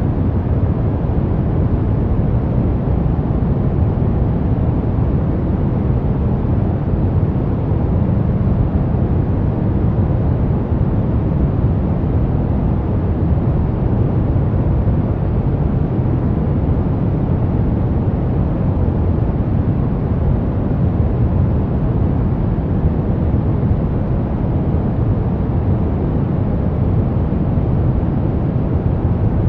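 Steady brown noise: a deep, even rumble of random noise, strongest in the low end and falling away toward the highs, with no change throughout.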